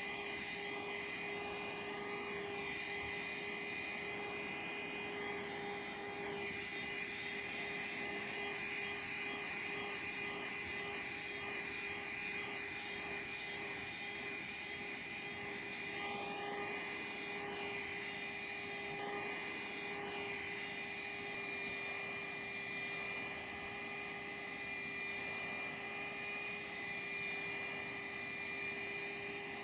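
Vacuum cleaner running steadily: a continuous motor whine over an even rushing air noise.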